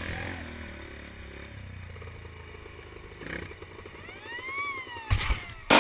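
Dirt bike engine running at low revs, revving up and back down once about four seconds in, with a few sharp knocks near the end.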